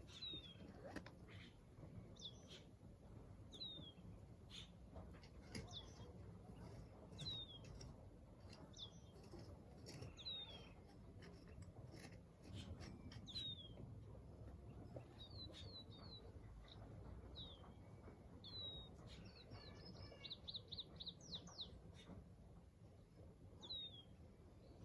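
Faint birdsong: a bird repeats a short, high, falling chirp about every second and a half, with a quick run of chirps about twenty seconds in. Under it lies a low, steady outdoor background noise.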